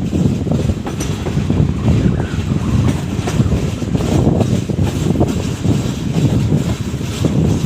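Passenger train running along the track: a steady rumble of the coaches with irregular clatter and knocks of the wheels over rail joints.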